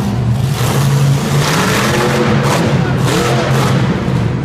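Monster truck engine running loud with a steady low drone, its pitch rising and falling in revs through the middle.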